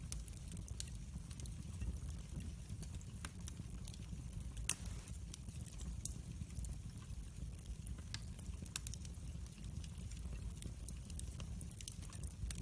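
Wood fire crackling: scattered sharp pops and snaps over a steady low rumble, with one louder pop a little under five seconds in.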